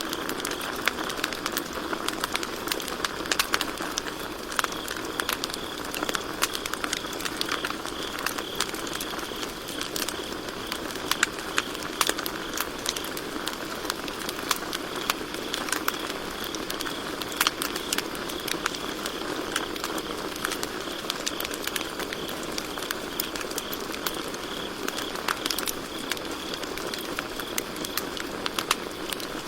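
Campfire burning with frequent sharp crackles and pops of burning wood, over a low steady hiss of flame. Crickets chirp in a steady high trill throughout.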